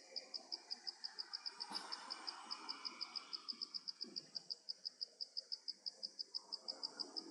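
An insect calling, a steady series of short high-pitched pulses, about seven a second.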